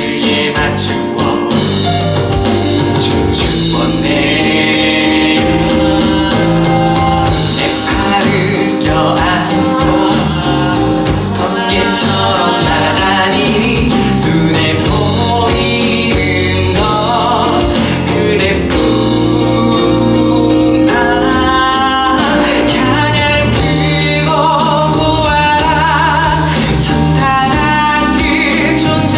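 Live stage-musical singing with instrumental accompaniment: voices holding long notes with vibrato over a steady backing.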